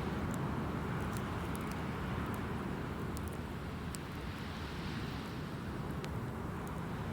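Driftwood bonfire crackling with scattered sharp pops, over a steady low rumble of wind on the microphone.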